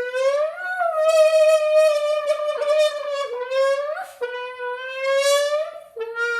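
A person blowing a buzzing, horn-like note through a squeezed can to imitate a Lamborghini engine revving. The pitch climbs in a few long pushes and breaks off twice for a moment.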